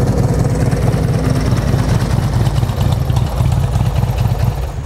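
Harley-Davidson Screamin' Eagle 110 V-twin idling steadily through true dual Rinehart exhaust pipes.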